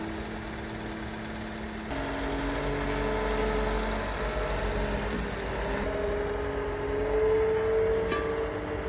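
A vehicle engine running. Its pitch steps up about two seconds in and again about six seconds in, then climbs slowly, as when pulling away and gaining speed.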